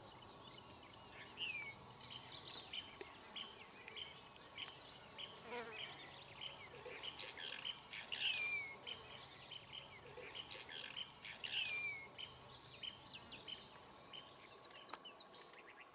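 Wild birds calling, with many short chirps and three or four clear whistles that slide down in pitch. About three-quarters of the way through, a loud, steady, high-pitched insect buzz starts and drowns them out.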